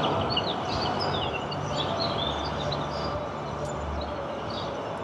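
Steady rumbling noise of passing vehicles, easing off a little, with small birds chirping over it.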